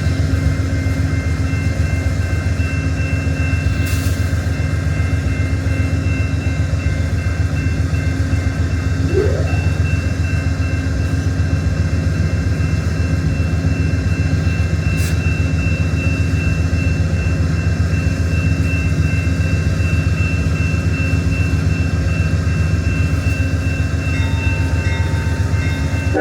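Diesel passenger locomotive of the Amtrak Borealis standing at the station with its engine idling: a loud, steady low hum with a few thin, constant high whine tones over it. A brief rising chirp comes about nine seconds in.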